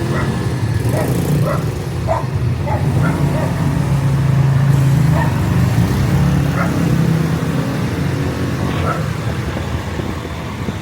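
A vehicle engine runs steadily, while a dog barks repeatedly at irregular intervals.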